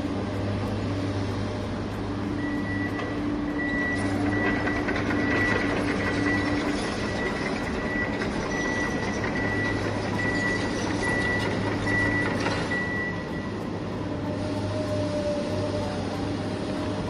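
A vehicle engine or motor runs with a steady hum. From a couple of seconds in until about two-thirds of the way through, a reversing alarm beeps over it in a regular, evenly spaced run.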